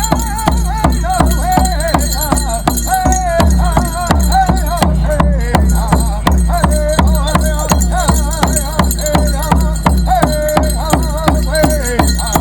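Native American drum song: a big drum beaten in a steady, fast rhythm while voices sing a wavering melody over it, with jingling metal bells.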